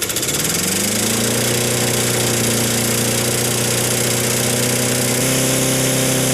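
Lawn mower engine just started and revving up over about a second, then running steadily at full speed with its throttle tied wide open and the governor unhooked.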